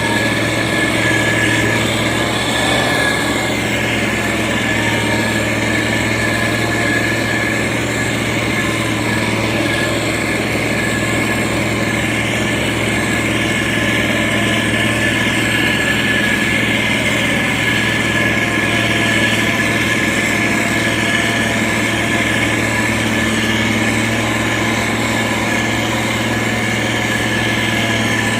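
Heavy diesel engine of a SANY STG190C-8S motor grader running at a steady speed while spreading gravel, with no revving or pauses.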